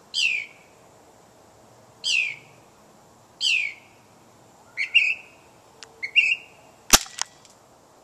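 A bird singing: three clear whistled notes sliding downward, spaced a second and a half to two seconds apart, then quicker two-part phrases. Near the end there is a sharp click, followed by a second, quieter one.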